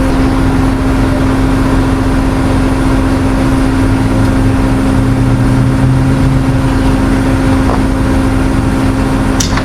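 Vehicle engine running with a steady drone. A lower hum swells for a couple of seconds midway, and a sharp click comes just before the end.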